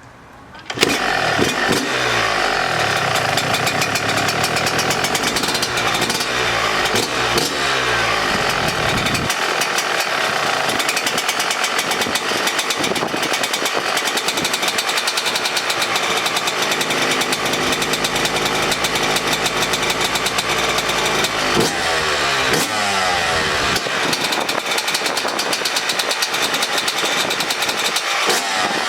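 2018 Yamaha YZ125's 125 cc single-cylinder two-stroke engine, freshly rebuilt with a new piston, comes in suddenly about a second in. It then runs loud with a fast crackling beat, its pitch rising and falling as the throttle is blipped, most noticeably early on and again near the end.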